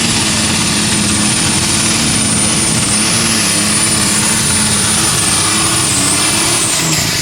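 Turbocharged super stock pulling tractor engine running flat out under load, with a steady high turbo whine over it. Near the end the whine and the engine note fall away as the throttle comes off at the end of the pull.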